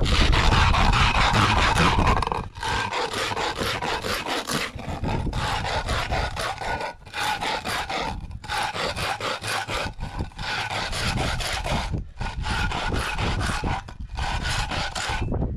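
A can of beans scraped rim-down, back and forth, against a rough surface in repeated rasping strokes. This grinds through the lid's seam to open the can without a can opener.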